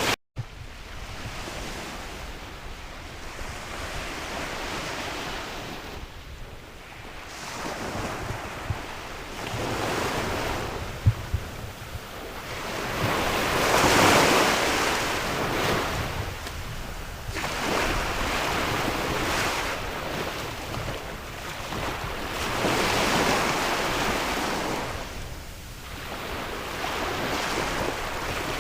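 Sea waves washing onto the shore, swelling and falling away every four to five seconds, with wind rumbling on the microphone.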